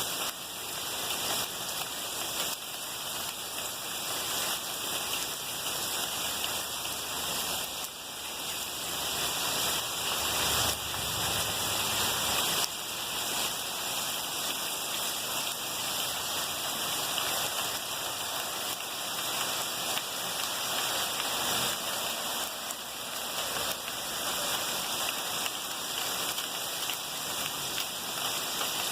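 Steady rush of heavy rain and running floodwater, an even hiss with no breaks.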